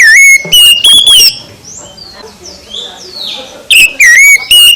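Oriental magpie-robin (kacer) singing loud whistled phrases with sliding notes, in two bursts, one at the start and one near the end.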